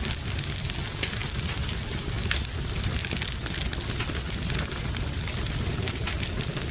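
Fireplace ambience: a wood fire crackling with many small sharp pops over a steady low rumble, mixed with the even hiss of rain.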